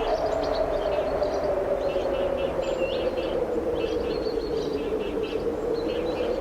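Strong wind blowing steadily through trees, with small birds chirping in many short, high notes throughout.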